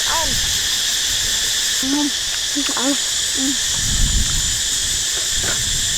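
Steady chorus of forest insects, a continuous high buzz in several bands. Short low voice sounds come and go on top of it, and there is a brief low rumble about four seconds in.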